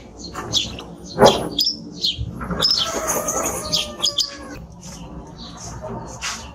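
Male timbrado canary singing: quick sharp chirps, then a longer continuous warbling phrase in the middle, with the song growing softer toward the end.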